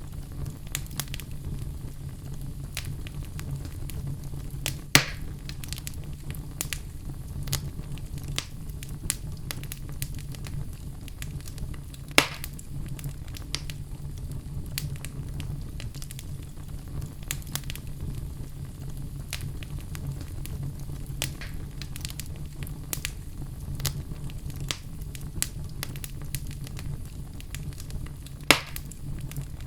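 Wood fire in a fireplace crackling steadily with many small snaps, over a low steady hum. Three louder, sharper pops stand out, spread through the stretch.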